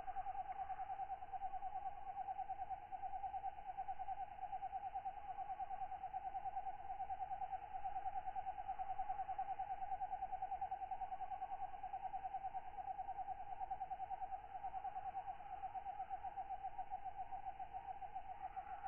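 Tropical night ambience of katydids calling: a steady, fast and even pulsing trill, with fainter higher calls above it.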